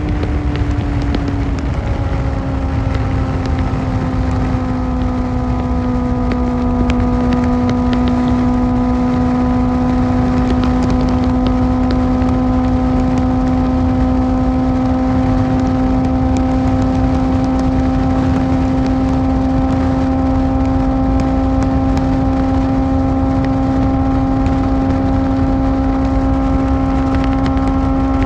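Kawasaki ZX-4R's inline-four engine through an Akrapovic exhaust, cruising at a steady, fairly high rev with wind rumble on the microphone. The engine note dips slightly about two seconds in, then holds steady.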